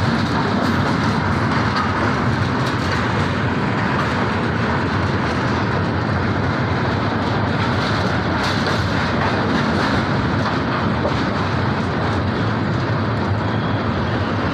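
A train running steadily, with a constant noise of wheels and carriages on the rails.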